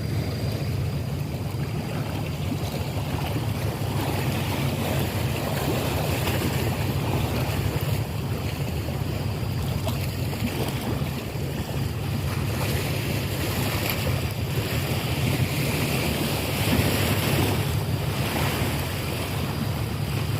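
Steady wind noise rumbling on the microphone, a constant low rumble under a broad hiss with no distinct events.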